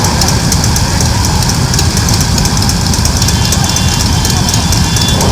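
Motorcycle engine running steadily: a continuous loud, low rumble with a hiss over it.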